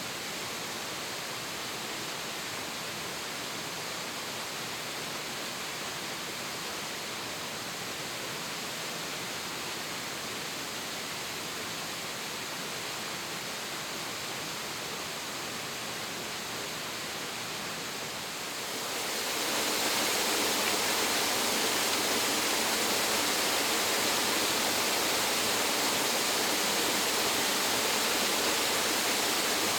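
Water of a low waterfall rushing down, a steady roar of falling water; about two-thirds of the way in it grows noticeably louder and brighter and holds there.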